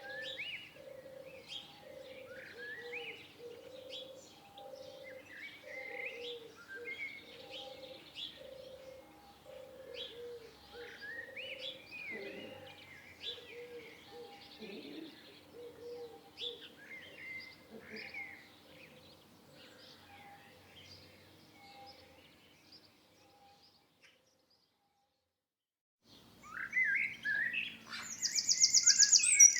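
Small birds chirping and singing in short, rising notes, over a low note that repeats evenly about once a second. The sound drops to near silence about 24 s in, then louder, closer bird calls return, with a fast high trill near the end.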